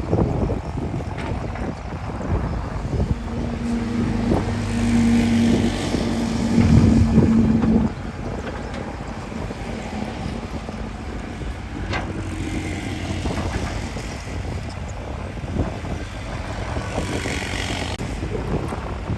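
Heavy earthmoving machine's diesel engine running, with a stronger pitched engine note from about three to eight seconds in that drops away suddenly, over wind buffeting the microphone.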